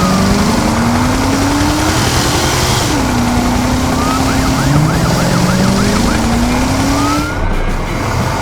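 A vehicle engine revving up again and again in rising sweeps, with a siren yelping rapidly in the middle and wailing upward near the end.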